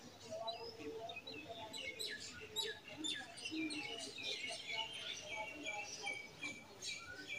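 Many small birds chirping together, a continuous run of quick overlapping tweets.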